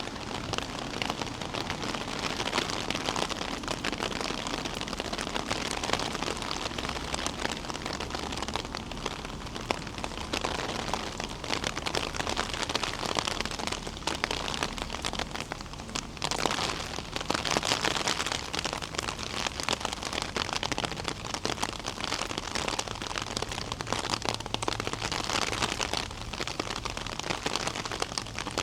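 Steady rain falling, with many close, sharp drop hits over the hiss of the downpour.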